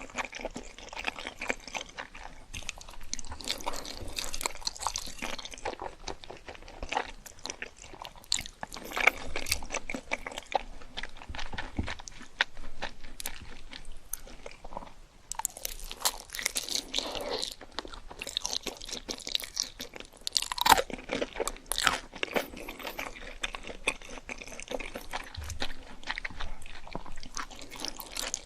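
Close-miked eating: crunchy bites into crispy fried food and chewing, with dense crackling and a few louder crunches.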